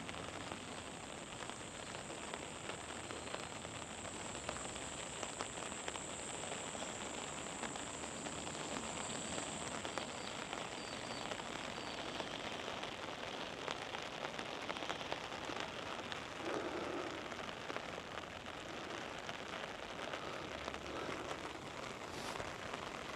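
Steady monsoon rain falling, an even hiss dotted with many small drop ticks. A thin high-pitched hiss rides on top through the first half and fades out.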